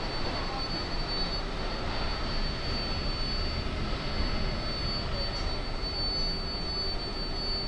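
Inside an R142A subway car at a standstill: the steady rush of the car's ventilation fans, with a constant high-pitched whine over it.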